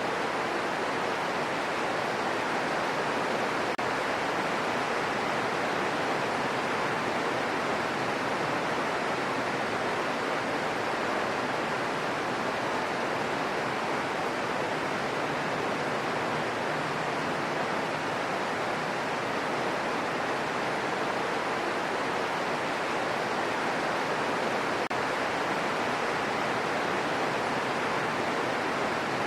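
Steady rain falling, a constant even hiss with no drops or thunder standing out.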